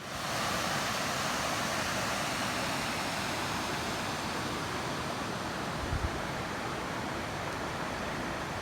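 Waterfall rushing steadily, a dense even roar of falling water, with a brief low thump about six seconds in.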